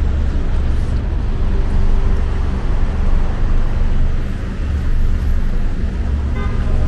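Street traffic: a steady, continuous rumble of passing cars and buses.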